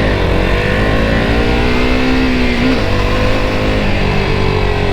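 KTM RC 200's single-cylinder engine under way, its pitch climbing, dropping sharply at a gear change a little past the middle, then climbing again, over a steady low rumble.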